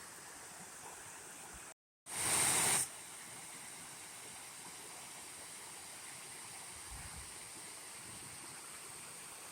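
Faint, steady rush of water from a small creek waterfall. About two seconds in, just after a momentary dropout, a louder rush of noise lasts under a second before the steady rush returns.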